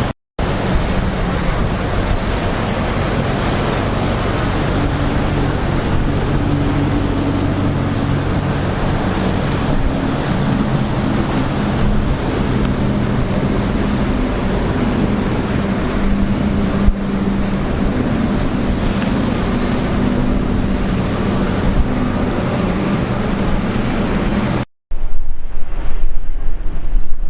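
Boat engines running over a wash of surf and wind, a steady engine hum whose pitch shifts. About 25 seconds in, the sound cuts out briefly, then wind buffets the microphone.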